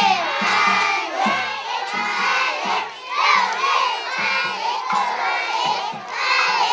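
A crowd of children shouting and cheering together, many high voices overlapping.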